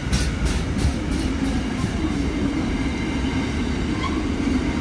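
Long freight train rolling past. The wagon wheels clack over the rail joints about four times a second, fading out about a second in, then give way to a steady low rumble with a faint hum.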